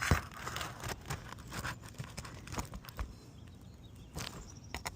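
Scattered light clicks, scrapes and cracks of asphalt roof shingles being lifted and worked loose by hand to get at the nails beneath.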